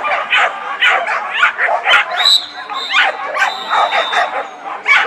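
Dogs barking and yipping, short overlapping yelps several times a second.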